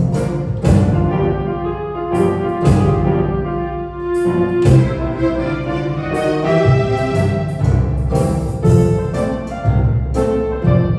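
A small ensemble of piano, woodwind and brass playing a piece together. Struck piano chords come at a regular pulse under held wind notes.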